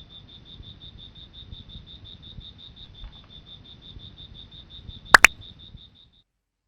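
Cricket chirping in an even, rapid pulse of short high chirps, about six or seven a second, over a low background rumble. Two sharp clicks come close together about five seconds in, and the chirping stops soon after.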